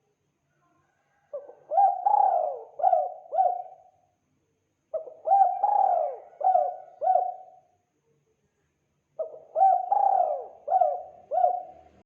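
Spotted dove (tekukur) cooing: three song phrases about four seconds apart, each a short note, a longer drawn-out coo, then a few shorter coos. This is the territorial call used as a lure to draw wild doves in.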